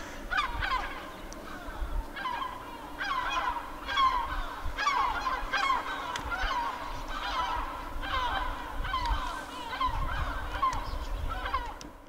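Birds calling over and over: a string of short calls that rise and fall in pitch, several each second.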